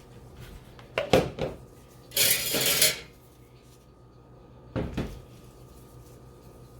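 Kitchen dishes and utensils being handled: a few clinks about a second in, a short noisy rush a little after two seconds, and a single knock near five seconds.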